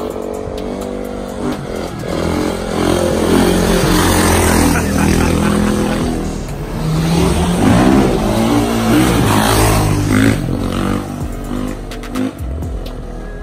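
Dirt bike engine revving, its pitch rising and falling repeatedly and getting louder from a few seconds in.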